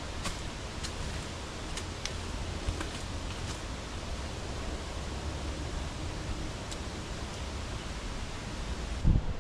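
Steady wind noise buffeting the microphone, with a low rumble, a few faint clicks and rustles, and one heavy low thump near the end.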